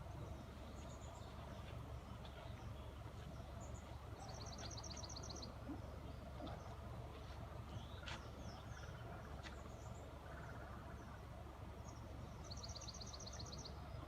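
Small birds chirping, with a quick trill of about ten notes heard twice, over a faint low steady rumble.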